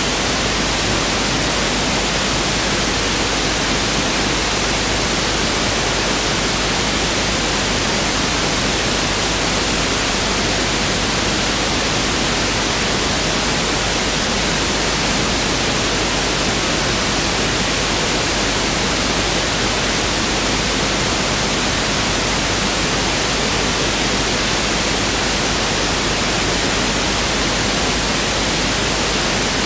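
Pink noise test signal: a steady, unbroken hiss covering the whole audible range at constant level.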